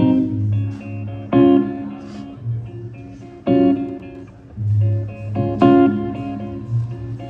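Instrumental band music led by guitar: chords struck sharply and left to ring over a steady low bass, with no singing yet.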